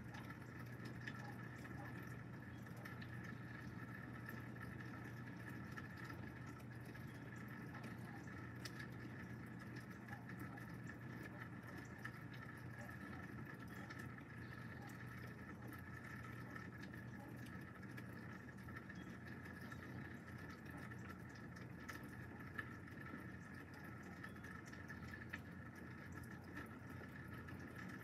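Steady rain heard from indoors through a window, a soft even hiss with a few light ticks of drops on the glass.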